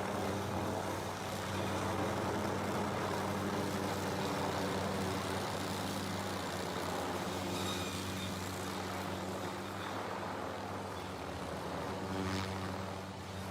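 A heavy vehicle's engine running steadily, with a low, even hum.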